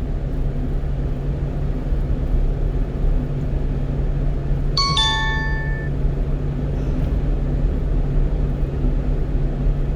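Steady engine and road drone inside the cab of a 1-ton truck on the move. About five seconds in, a short electronic alert chime of two quick notes sounds from the navigation unit.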